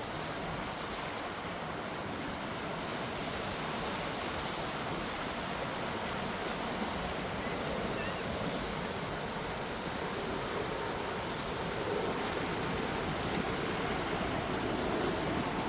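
Small waves on a calm sea, washing in a steady even hiss that grows a little louder in the second half.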